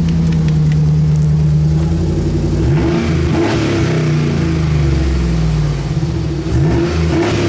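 2011 GMC Sierra 1500's engine running loud through a straight-pipe exhaust with no muffler. It idles steadily just after start-up, then is revved up and back down twice, once around three seconds in and again near the end.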